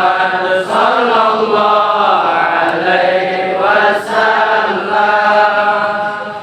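A group of voices chanting Islamic devotional praise (shalawat) together in long, drawn-out melodic phrases. It eases off near the end.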